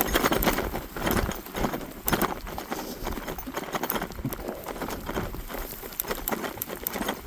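E-bike riding through snow over rough ground: a run of irregular crunches, knocks and rattles from the tyres and bike, loudest about the first second, over a steady rush of wind noise.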